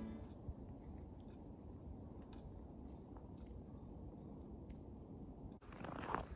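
A few faint, short, high bird chirps in a snowy spruce forest over a low steady rumble. Near the end, footsteps start crunching in deep snow.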